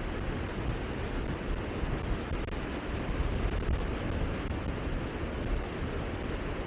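Steady rushing wind, with a constant low rumble of gusts buffeting the microphone.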